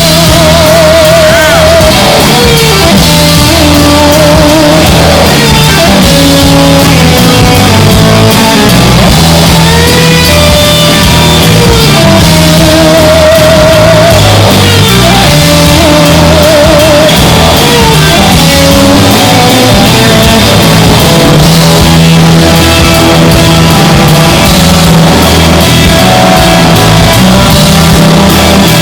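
Live rock band playing loudly, with electric guitar and drums under a singer who holds long notes with a wavering vibrato.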